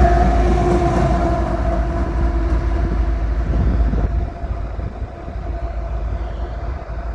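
Freight cars rolling past on the rails with a steady low rumble and a faint steady ringing tone. The sound drops off about four seconds in.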